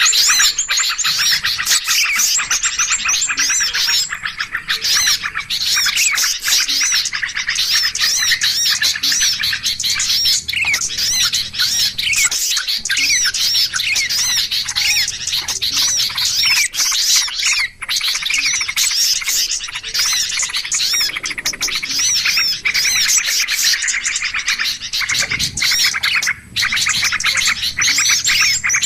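Noisy bird-lure recording: a dense, unbroken chorus of many small songbirds chattering and chirping at once, rapid high calls overlapping each other, the kind of agitated flock noise played to draw small birds in.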